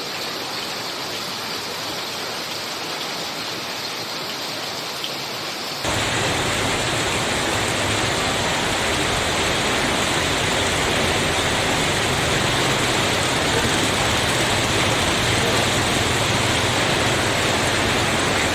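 Heavy tropical rain pouring down as a steady, loud hiss. About six seconds in it abruptly becomes louder and fuller, with more low rumble.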